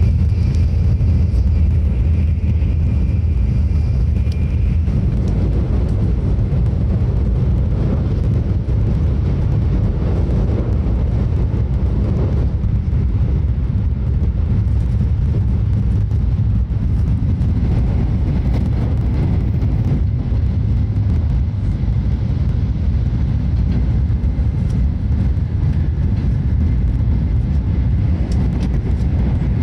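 Tokaido Shinkansen cabin noise at speed: a steady low rumble of the train running on the line, heard from a seat inside the car. A faint high whine sounds over it for the first few seconds.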